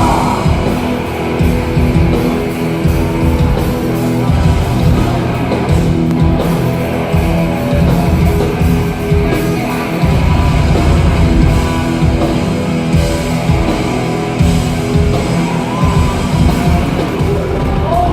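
A hardcore band playing loud, heavy music with distorted guitars and drums, dense and unbroken throughout.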